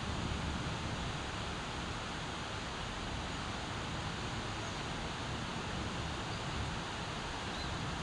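Steady monsoon rain falling, an even hiss with no distinct thunderclap.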